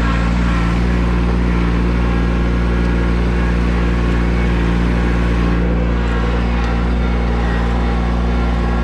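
Tractor engine running at a steady speed, with an even drone that neither rises nor falls.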